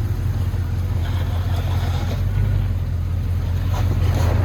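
A vehicle engine running steadily at low revs, a deep, even hum.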